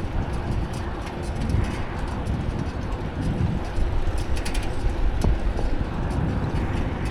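Steady low rumble of a bicycle on the move, tyre and road noise mixed with wind on the microphone, with a few short clicks and rattles about four and a half seconds in.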